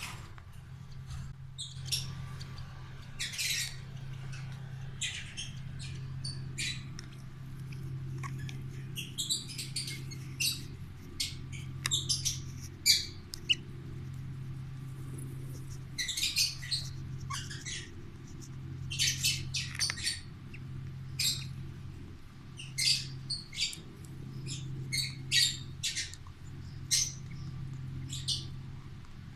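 Pet birds chirping and squawking in short, irregular calls, over a steady low hum.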